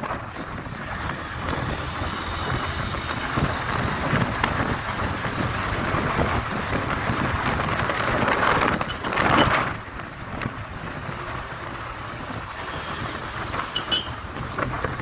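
Honda Hornet 160R motorcycle running at road speed, its engine mixed with wind rushing over the microphone; the sound swells louder for about a second around nine seconds in.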